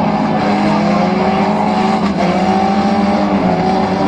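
Several car engines running hard under race load, revving with their pitch drifting up and down.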